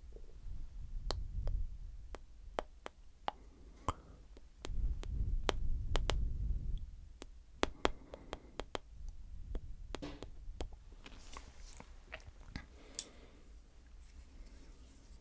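Close-up wet mouth sounds against a microphone, as in mic licking: scattered sharp clicks and smacks, with two stretches of low rumble from contact with the mic in the first half.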